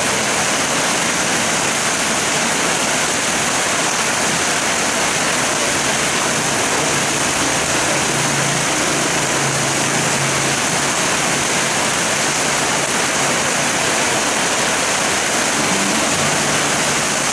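Heavy rain pouring steadily onto a paved road, with a thin stream of runoff from above splashing onto the pavement.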